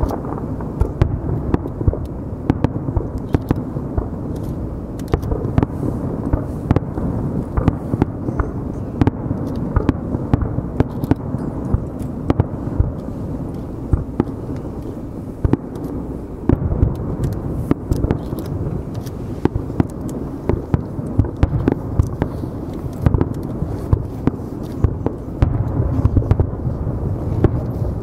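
Aerial fireworks shells bursting in quick, irregular succession: many sharp bangs and crackles over a continuous low rumble, which grows louder near the end.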